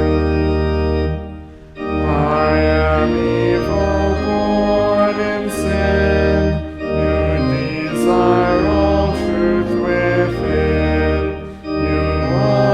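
Church organ playing the psalm tune in sustained chords, with short breaks between phrases about a second and a half in and again near the end.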